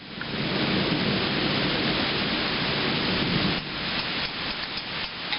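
Heavy rain pouring steadily during a thunderstorm, with a low rumble of thunder under it that cuts off abruptly about three and a half seconds in.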